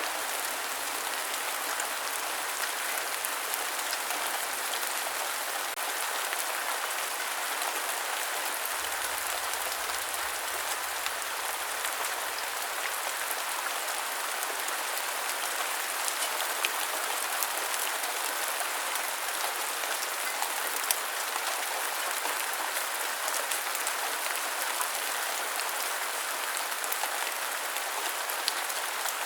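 Steady rainfall, a dense even hiss with scattered drop ticks and a few slightly louder drops after the middle.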